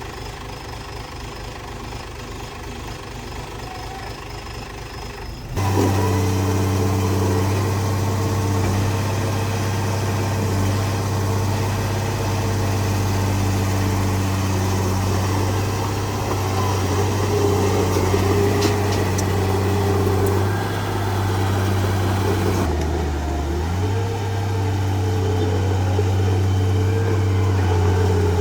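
Heavy diesel engine of earthmoving equipment running. A quieter low rumble gives way, about five seconds in, to a sudden much louder, steady engine sound with a deep hum that holds to the end.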